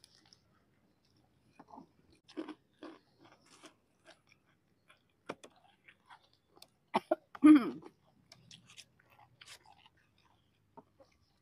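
Close-miked chewing of crispy fried snacks (gorengan), with irregular short crunches and mouth clicks. About seven and a half seconds in there is a louder, brief mouth sound.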